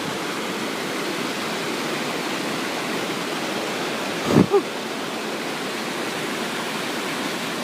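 Steady rush of a waterfall, an even roar of falling water. A brief pitched call cuts across it about four and a half seconds in.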